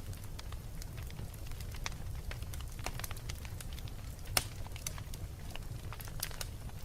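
Wood fire burning in a fireplace: scattered sharp crackles and pops, one louder pop about four and a half seconds in, over a steady low rumble of the flames.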